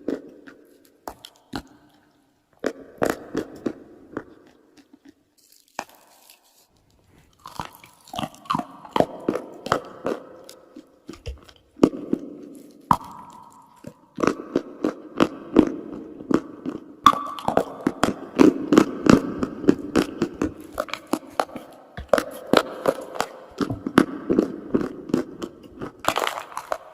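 Someone biting and chewing dry chalk and clay: sharp crunches and crackles in irregular runs. There are a couple of brief pauses in the first quarter, then steady chewing.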